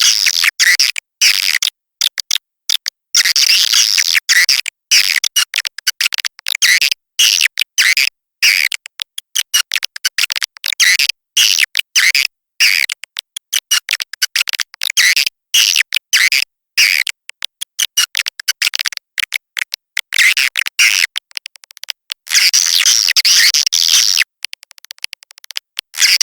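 Swiftlet lure recording (suara walet): dense, high-pitched swiftlet chirping and twittering, chopped into rapid bursts with abrupt silent gaps, played to attract swiftlets to nest.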